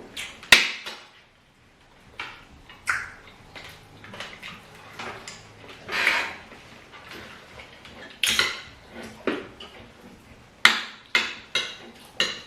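Cutlery clinking and scraping against plates while eating, with sharp clicks here and there, a loud one about half a second in and several in quick succession near the end.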